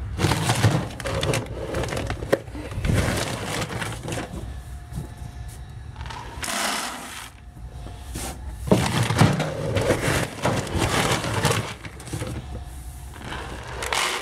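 Dry horse feed being scooped and poured into feed buckets, in several noisy pours one after another.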